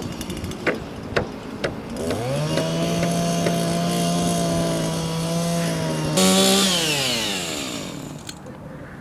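Power saw starting about two seconds in after a few sharp knocks, running steadily at one pitch for about four seconds, rising briefly in pitch, then winding down in a falling whine until it stops.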